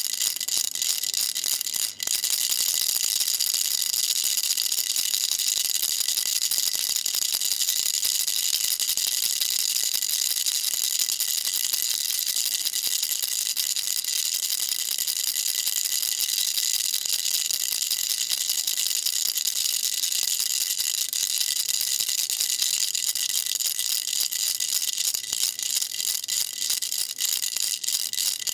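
Baby rattle shaken continuously: a steady, fast, high-pitched rattling, with a brief break about two seconds in.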